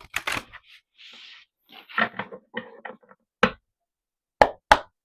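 A person drinking water: a few sips at first, a short breath about a second in, then separate gulps a fraction of a second apart in the last second and a half.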